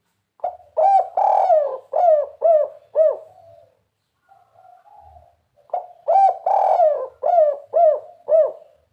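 Spotted dove (tekukur) singing two cooing phrases about five seconds apart. Each is a run of arched coos with a longer note near the start, ending in three separate coos, the 'kuk 3' pattern. Softer low cooing sounds between the phrases.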